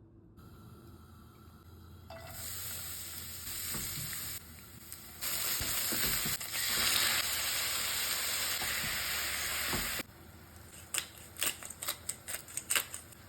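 Food sizzling as it fries in a pan, in a few stretches that start and stop abruptly. Near the end the sizzle drops away and a quick run of sharp clicks and taps follows.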